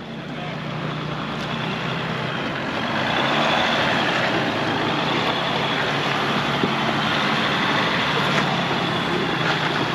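Off-road vehicle's engine running steadily under a constant rushing noise, getting a little louder about three seconds in.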